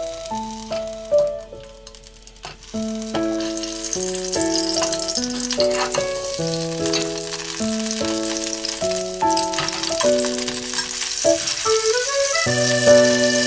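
Cherry tomatoes frying in olive oil in a nonstick pan: a steady sizzle that sets in about three seconds in and holds to the end. A light background music tune plays over it throughout.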